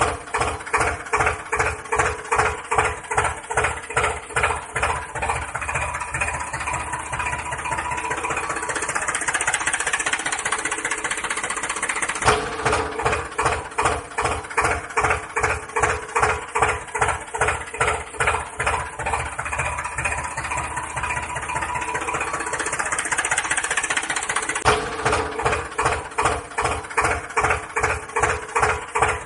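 Tractor engine running with a slow, even chug of about two to three beats a second, which speeds up and smooths out, then drops back abruptly to the slow chug. The same stretch of sound repeats about every twelve seconds.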